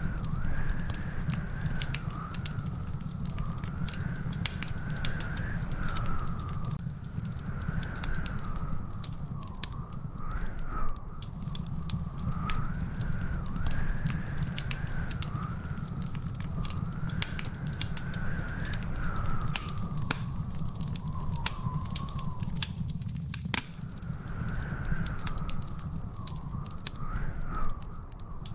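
Wood fire crackling, with dense irregular pops and snaps over a steady low rumble. A thin whistling tone wavers slowly up and down throughout.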